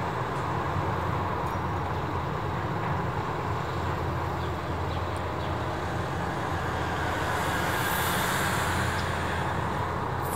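Steady low engine rumble with even traffic-like noise, unchanging throughout.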